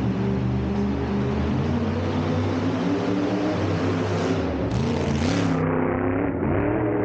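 Monster truck engine running steadily, blipped twice in the second half with its pitch rising briefly each time.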